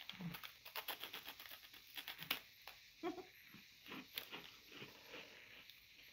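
Crunching and chewing of a hard, crisp rolled snack: a quick run of crunches as it is bitten, then slower, scattered crunches as it is chewed.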